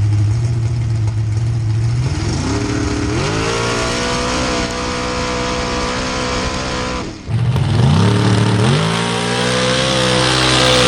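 An 1800-horsepower mud racing truck's engine rises from a low, steady run into a high rev that it holds. About seven seconds in the revs drop sharply, then climb back up and hold high again.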